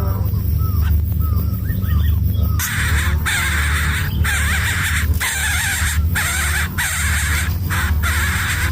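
Greater coucal nestlings giving harsh, rasping calls over repeated short arching chirps, with a steady low hum underneath; the rasping starts about two and a half seconds in.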